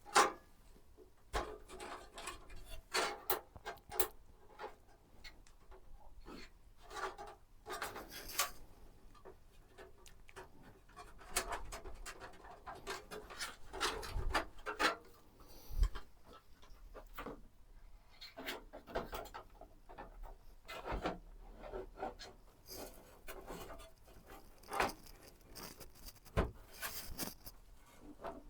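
Hand-assembly of a PC: irregular clicks, taps and rustling as parts and cables are handled and fitted.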